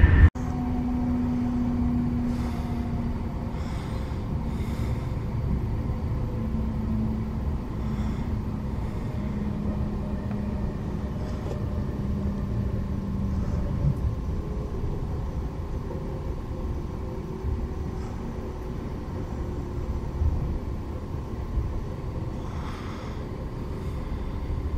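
Moving train, a steady low rumble with a motor hum that slowly falls in pitch during the first half.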